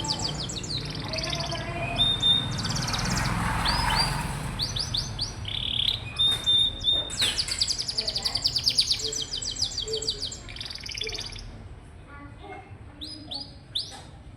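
Domestic canary singing: fast rolling trills of quickly repeated high notes, broken by short held whistles, growing softer after about twelve seconds.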